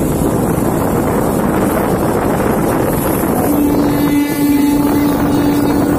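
Rumble of a moving express train mixed with wind buffeting the microphone at an open carriage door. A steady humming tone joins about three and a half seconds in.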